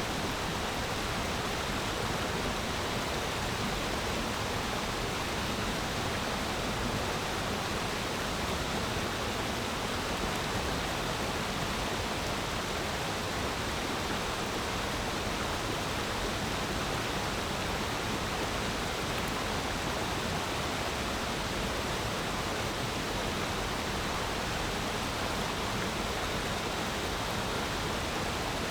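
Clear forest stream flowing, an even, unbroken wash of water sound at a constant level.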